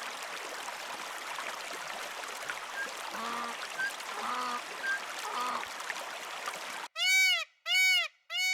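Outdoor background noise with a few faint calls in the middle, then three loud honking bird calls in quick succession near the end, each rising and falling in pitch.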